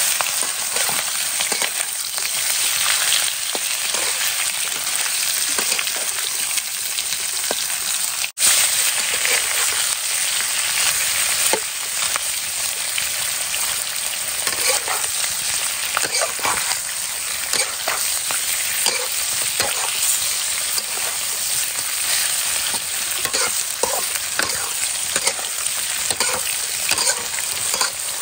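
Sliced smoked pork sizzling and frying in a steel wok, with a metal spatula scraping and clicking against the pan as it is stirred. The sound drops out for an instant about eight seconds in.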